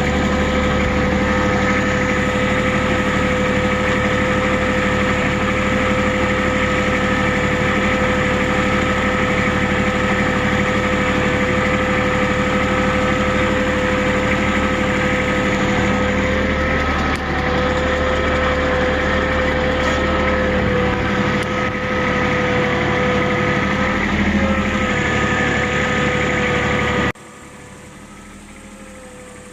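A vehicle engine running steadily at an even pitch. About 27 seconds in the loud noise stops abruptly, leaving a much quieter steady hum.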